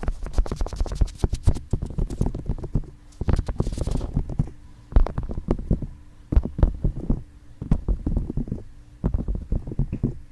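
Fingertips tapping quickly on a binaural microphone's ears, in runs of dull, close taps a second or two long with short pauses between, and a brief rubbing hiss about three to four seconds in.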